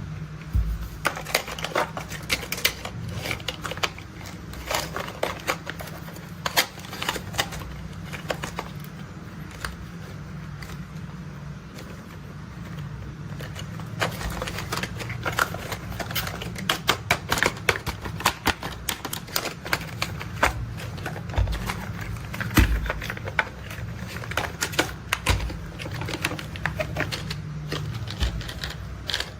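Toy construction vehicles being handled, giving rapid, irregular clicks and rattles over a steady low hum; the clicking grows busier about halfway through.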